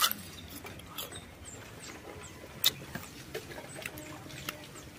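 A crisp bite into an unripe green mango, then crunchy chewing in a series of sharp crunches, the loudest about two and a half seconds in.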